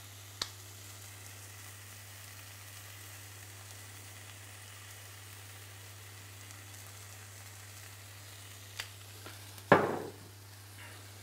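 Chicken frying on a griddle pan: a faint, steady sizzle over a low hum. There are a couple of light clicks and a brief louder clatter near the end.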